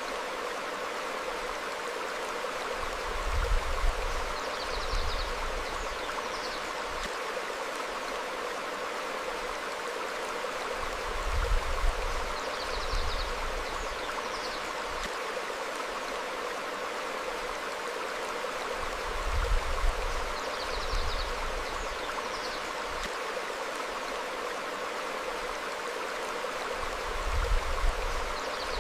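A stream flowing steadily over rocks, with short high bird chirps recurring every few seconds. About every eight seconds a brief low rumble swells up, the loudest part of the sound.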